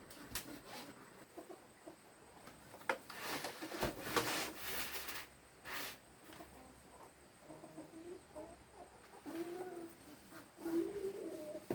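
Domestic fowl calling: short, low pitched clucks and calls, most of them in the second half. About three to five seconds in, there is a burst of rustling noise with a few clicks.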